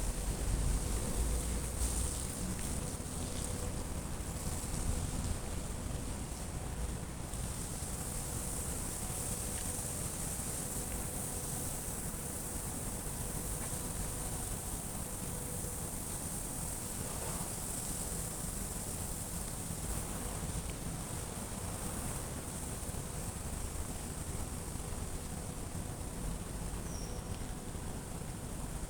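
Steady outdoor ambience: a continuous high-pitched insect drone, with wind rumbling on the microphone during the first several seconds.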